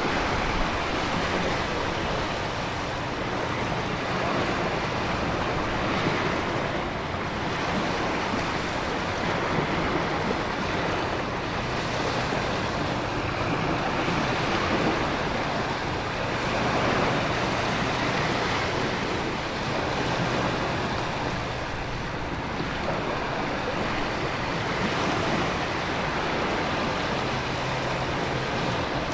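Storm ambience of heavy rain and wind with ocean surf breaking, a steady dense rush that swells and eases every few seconds.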